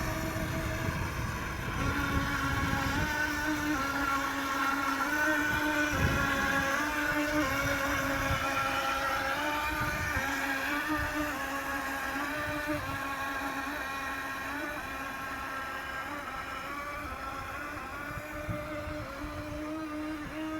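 Twin electric motors of a toy RC speed boat whining steadily under power, the pitch shifting up and down a little as the throttle changes. The sound grows gradually fainter toward the end.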